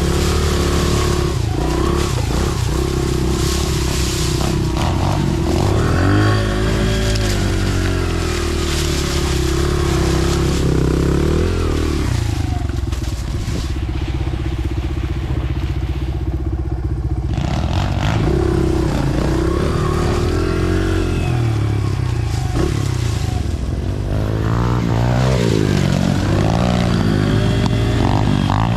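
Dirt bike engines running along a trail, their pitch rising and falling as the throttle is worked. About halfway through they settle to a steady pitch for several seconds, then rev up again.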